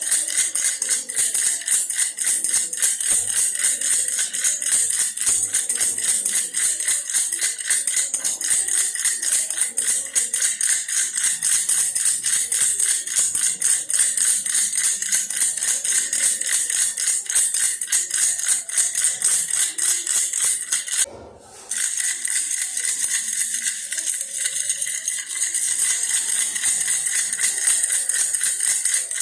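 Baby's toy bear rattle shaken continuously, a fast, dense rattling with a brief pause about two-thirds of the way through.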